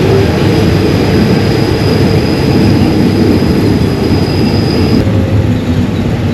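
Passenger train running on the line: a loud, steady rumble of the train in motion, with a thin high whine that stops about five seconds in.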